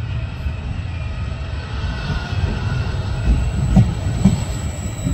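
Vivalto double-deck regional train, hauled by an E464 electric locomotive at the rear, pulling slowly into the station to stop. Its wheels rumble steadily over the rails with a faint squeal, and a few heavy knocks come in the second half as the bogies pass.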